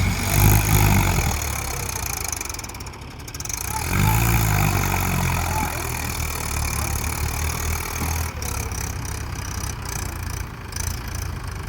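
Mahindra tractor's diesel engine running, its speed rising and falling twice (near the start and about four seconds in), then running steadily.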